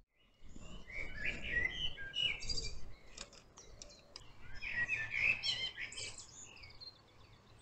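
Small songbirds singing faintly in quick twittering chirps, in two spells a few seconds apart.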